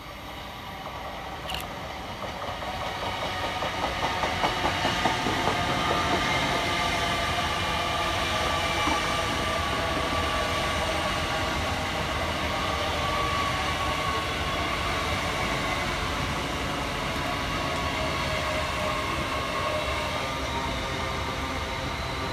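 LNER Class 801 Azuma train passing through the station: it grows louder over the first few seconds with a rhythmic clickety-clack of wheels over rail joints, then rolls by steadily with a continuous rumble and a steady whine.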